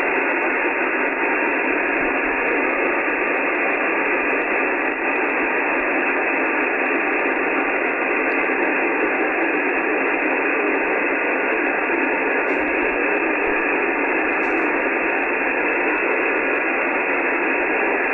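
Steady hiss of an Icom IC-9700 transceiver's receiver noise on 70 cm SSB, cut off sharply above and below the narrow voice passband, with no voice audible in it.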